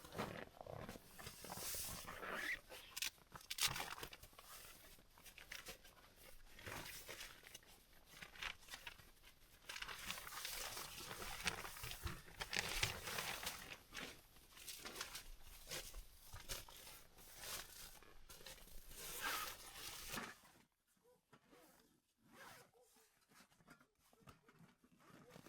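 Irregular crunching and rustling close to the microphone, which stops about twenty seconds in, leaving only a few faint scattered small sounds.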